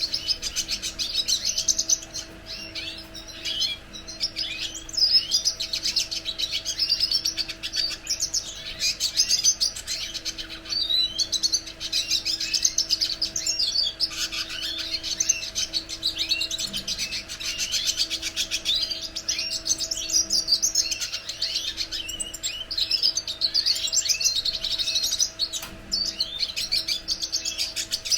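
Red siskin (cardenalito de Venezuela) singing: a long, rapid twittering song of quick high notes with brief pauses. A steady low hum sits underneath.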